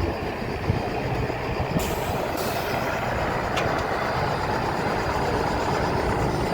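Heavy truck engine running steadily, with a brief hiss about two seconds in and a single click.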